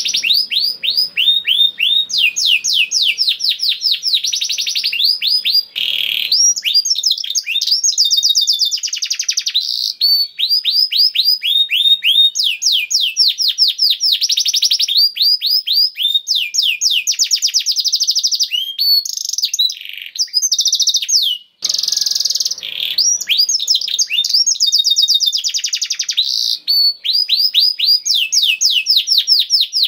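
Domestic canary singing continuously: long, rapid trills of repeated downsweeping notes, several trills a few seconds long, strung together with only brief pauses.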